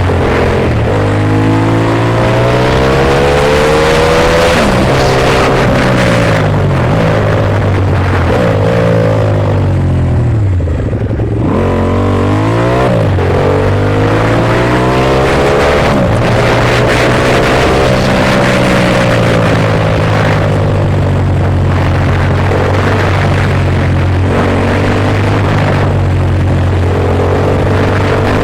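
Ducati Monster S2R's air-cooled V-twin engine running while the bike is ridden, its pitch rising and falling over and over as it accelerates, changes gear and slows. The pitch drops lowest about eleven seconds in, then climbs again.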